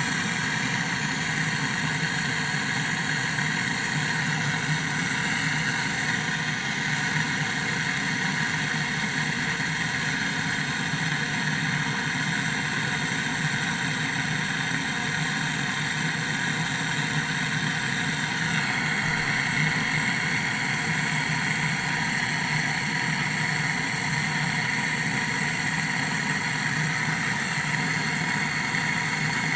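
Window air conditioner running with a steady machine hum and whirr; its tone brightens slightly about two-thirds of the way through.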